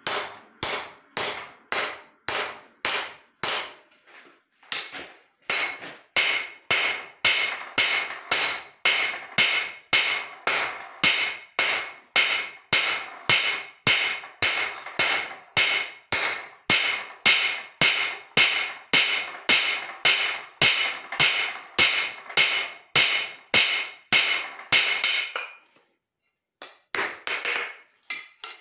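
Hand hammer striking leaf-spring steel on an anvil in a steady rhythm of about two blows a second, the anvil ringing with each blow. The blows pause briefly a few seconds in, stop about four fifths of the way through, and a few lighter taps follow near the end.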